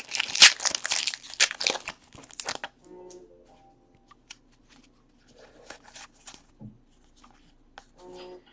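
Crinkling, crackling tearing of a trading-card pack wrapper for about the first two and a half seconds. Then quieter handling, with scattered faint clicks.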